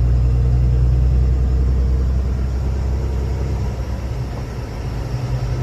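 Steady engine and road drone heard from inside a moving vehicle's cabin, a deep low hum that eases slightly about four seconds in.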